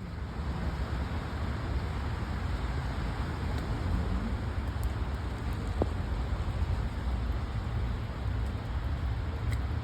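Strong storm wind buffeting the microphone: an unsteady low rumble with a steady rushing hiss over it.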